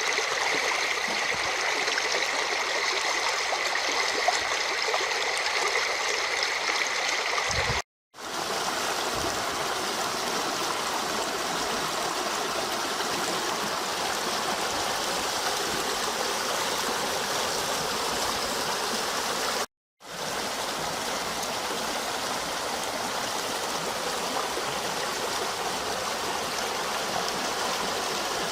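A river running high after heavy rain: a steady rush of flowing water. It cuts out abruptly for a moment twice, about a third and about two thirds of the way through.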